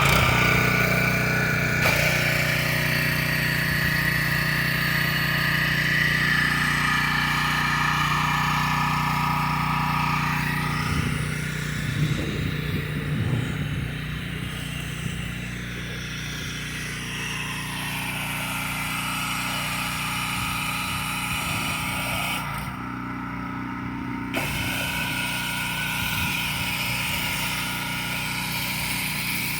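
Stihl pressure washer's small engine running steadily, its level dipping a little partway through.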